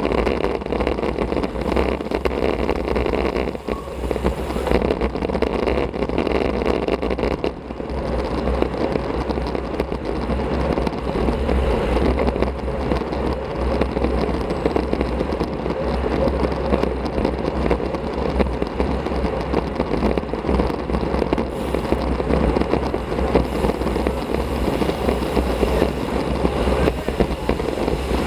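Steady wind rush over an action camera's microphone while riding a road bicycle at speed, with a low rumble underneath; it dips briefly twice in the first eight seconds.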